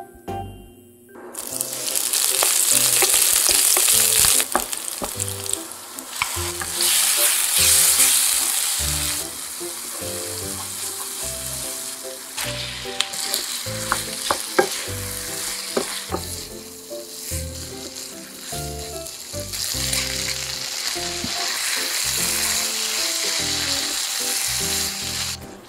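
Korean stir-fried squid sizzling hard in a frying pan: green onion and gochujang chili sauce fry in hot oil, then squid and vegetables go in and are stirred with a spatula, with a few sharp clicks against the pan. The sizzle starts about a second in and swells and eases as food is added and stirred.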